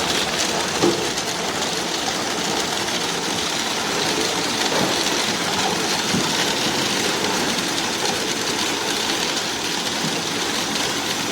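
Granular ice-making machine running with a steady mechanical noise.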